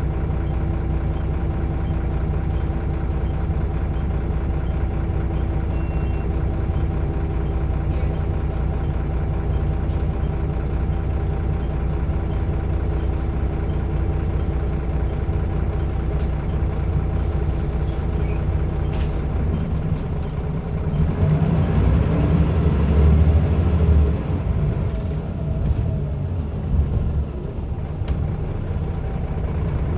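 Scania L94UB bus's diesel engine idling steadily. About two-thirds of the way through, a short air hiss is followed by the engine pulling louder for a few seconds, then falling back unevenly to idle.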